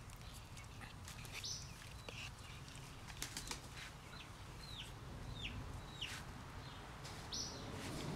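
A bird calling: a run of four short falling chirps a little under a second apart, with two higher squeaky calls near the start and the end. Faint scattered clicks and scratches come from a stick scraping bait out of a jar.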